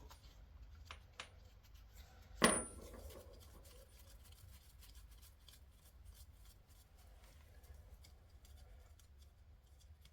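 A 21 mm wrench working the oil drain plug on a 1976 Suzuki GT750 engine: a few light metal clicks, then one sharp metallic clank with a brief ring about two and a half seconds in, followed by faint scattered ticks.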